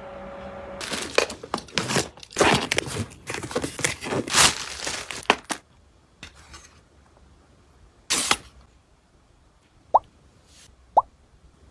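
Household items and packaging being handled and set down: a quick run of clicks, knocks and rustles, then quieter, with one brief rustle and two short rising plops near the end.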